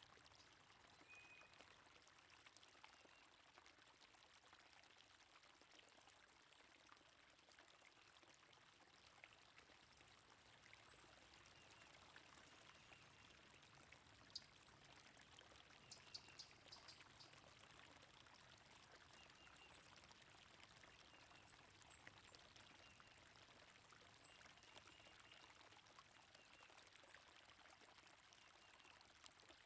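Faint, steady flowing water of a stream, with short high bird chirps scattered through it and a few sharp ticks around the middle.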